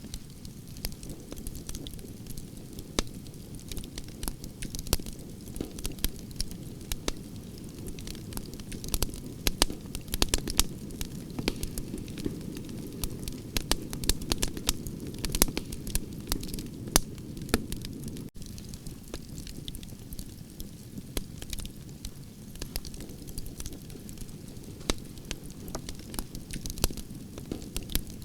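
Wood campfire of burning branches crackling, with sharp pops and snaps over a steady low rush of flames; the popping gets busier in the middle.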